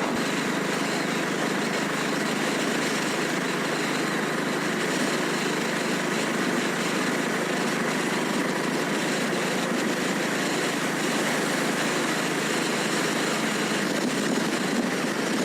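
Royal Enfield Classic 350's single-cylinder engine running steadily while the motorcycle cruises, heard as an even, unbroken ride noise.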